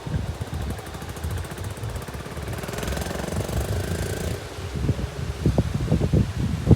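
A motorcycle engine running with a rapid, even low pulse.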